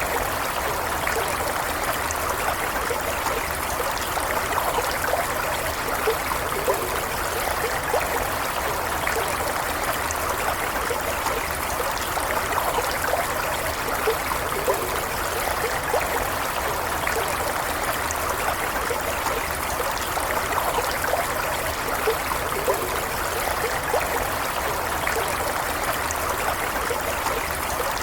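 Small stream flowing steadily, water trickling and bubbling over stones in an even, unbroken rush with many small splashes and gurgles.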